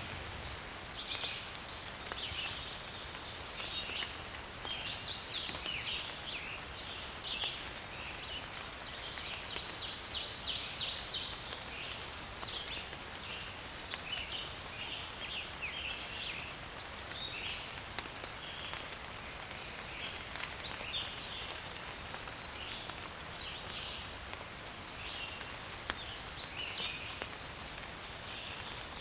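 Forest birds singing: many overlapping short chirps and trills, with the busiest stretches around five seconds and ten seconds in, over a steady soft background hiss and an occasional sharp tick.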